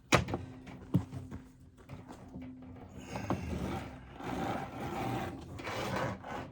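Two sharp metal knocks about a second apart, then a few seconds of scraping and rustling as wire rope and rigging hardware are handled. A faint steady hum runs underneath.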